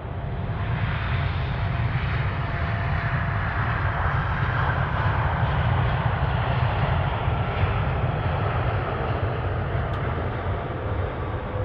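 Airliner's engines as the aircraft passes: a deep rumble with a rushing hiss that swells over the first couple of seconds, peaks about halfway and slowly eases off, with a faint whine sliding down in pitch.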